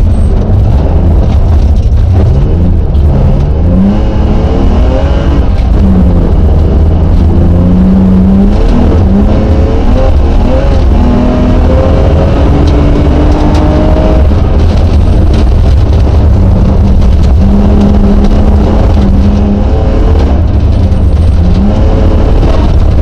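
Rally car engine heard from inside the cabin at full attack, its note climbing through the revs and dropping again with each gear change and lift, over a constant heavy low rumble. The revs hold steady for a few seconds about two-thirds of the way through, then climb again near the end.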